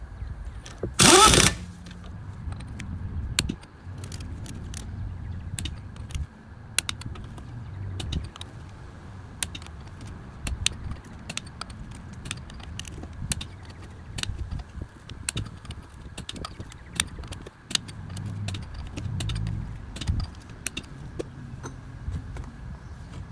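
Metal tools and brake parts clinking and clicking in scattered, irregular knocks during a brake job, with a short, loud hiss about a second in.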